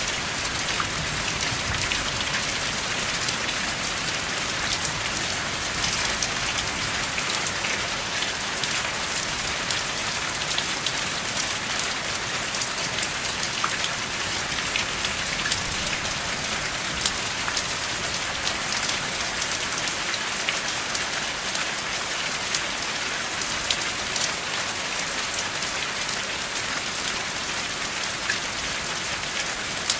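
Steady rain falling, an even hiss with many distinct drops ticking sharply through it, and no thunder.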